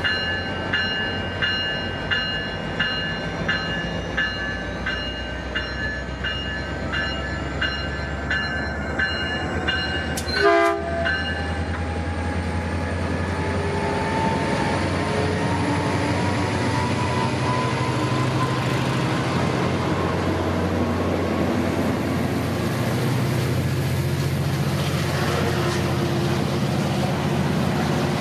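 Level-crossing bell ringing in steady repeated strikes, then stopping after about eleven seconds, with a short train-horn toot just before it stops. After that a Caltrain diesel locomotive pulls away, its engine rumble growing and a whine rising slowly in pitch as it accelerates, and the passenger cars roll past.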